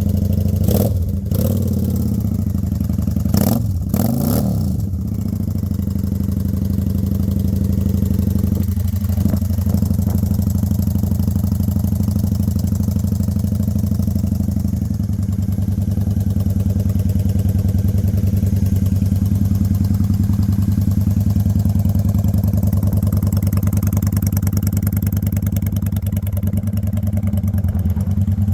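Straight-piped 2003 Honda Shadow 750 ACE V-twin idling steadily just after a cold start in freezing weather, having sat unused for four months. A few brief knocks come through in the first five seconds.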